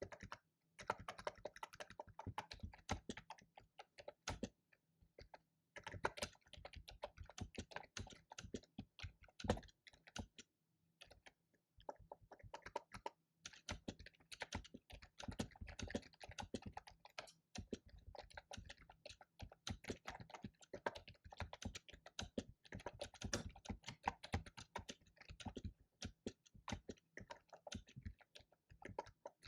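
Fast typing on a computer keyboard: dense runs of key clicks broken by a few brief pauses.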